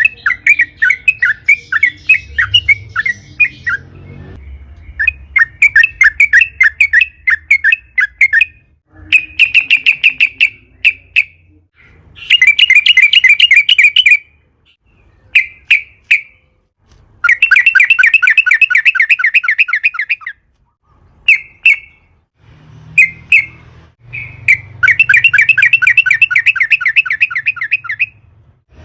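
Yellow-vented bulbul (trucukan) singing long rapid rolls of chattering notes, phrase after phrase of one to four seconds with short pauses between them.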